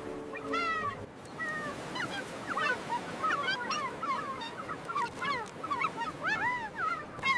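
A flock of seagulls calling over one another, many short cries that rise and fall in pitch. Background music stops about a second in.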